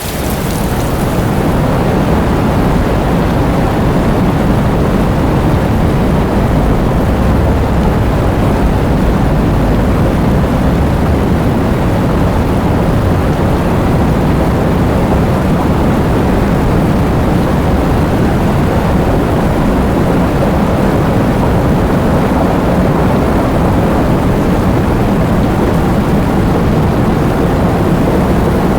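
Thunderstorm: heavy rain over a steady, deep rumble of thunder, holding even throughout with no sharp claps.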